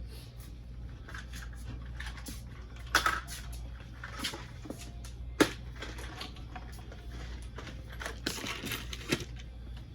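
Scattered clicks, clinks and knocks of hand tools and small metal parts being handled during the carburettor and intake fitting, the sharpest a little past the middle and a short cluster near the end. A steady low hum runs underneath.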